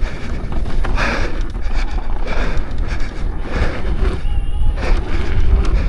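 Wind buffeting the microphone with the knocking and clattering of an Apex electric unicycle riding fast over a rough dirt trail on its coil-spring shock. A brief faint whine comes about four seconds in.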